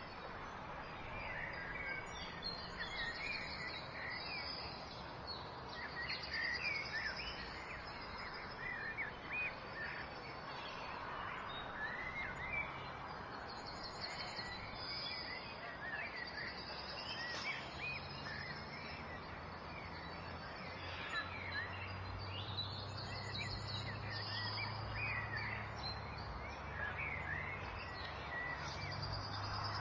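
Songbirds chirping and singing, many short overlapping calls and trills, over a steady hiss. A faint low hum comes in partway through.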